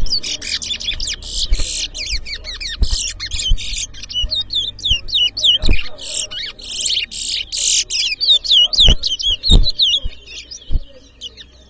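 Towa-towa (chestnut-bellied seed finch) singing competition song: a fast, continuous run of sweeping, high whistled notes that thins to scattered notes about ten seconds in. A few low thumps sound under the song.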